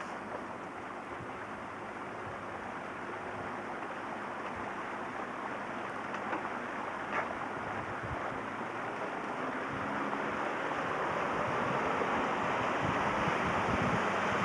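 Rush of water and wind from a moving boat on a river, with a faint motor hum underneath, slowly growing louder.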